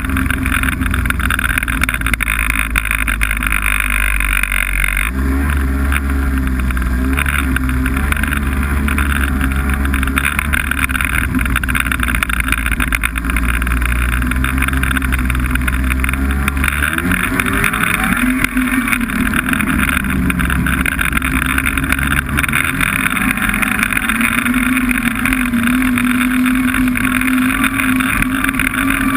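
Snowmobile engine running under way, a steady motor drone whose pitch shifts several times as the throttle changes, with a brief rise and fall about two-thirds of the way through.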